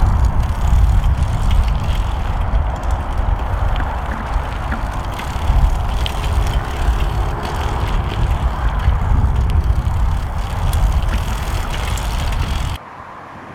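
Steady rushing rumble of a bicycle ride, heaviest in the low end, like wind on a moving camera's microphone together with road noise; it cuts off abruptly near the end.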